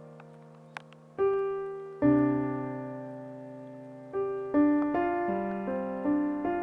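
Background piano music: slow chords, each struck and left to fade, with the notes coming more quickly in the second half.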